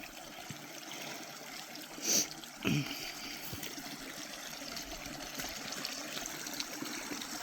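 A creek running steadily, carrying a lot of mud. Two brief louder sounds come a little over two seconds in.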